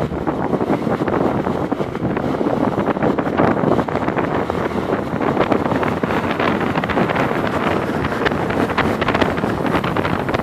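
Wind buffeting the microphone: a loud, steady rush with many small crackles.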